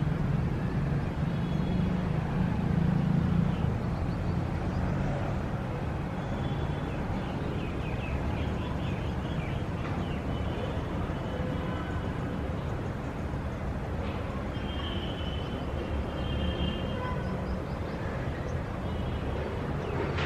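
Steady rumble of city traffic, with birds chirping over it now and then.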